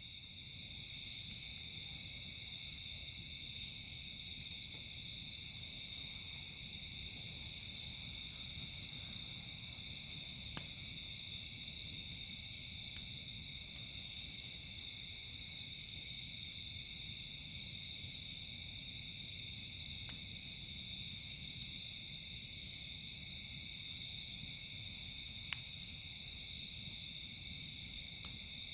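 Steady chorus of night insects such as crickets, with a higher pulsing insect call coming in about every six seconds. A few sharp single pops from the crackling campfire sound over it, the clearest near the end.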